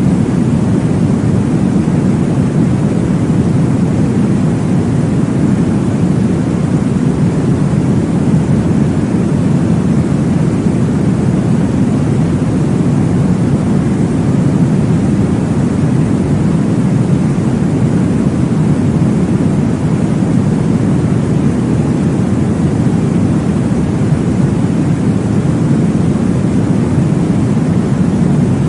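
Steady low whooshing noise played to lull a baby to sleep, a deep even hiss weighted toward the bass. It runs unbroken, with no rise, fall or beat.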